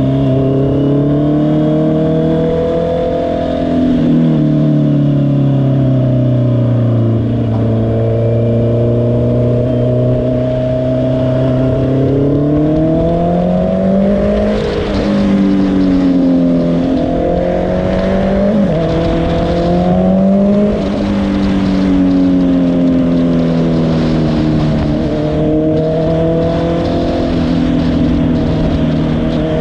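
2022 Honda CBR650R's inline-four engine under way, the revs easing off, then climbing and rising and falling several times in quick succession about halfway through before holding steady near the end, with wind noise over the microphone.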